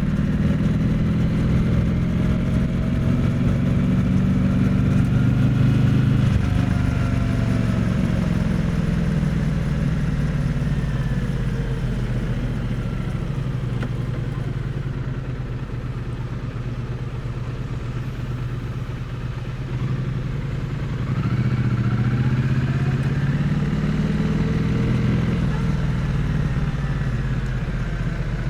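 Triumph Bonneville T100's parallel-twin engine and exhaust running under way, heard close to the exhaust. It pulls strongly at first, eases off after about eight seconds, then picks up again with rising revs a little past twenty seconds.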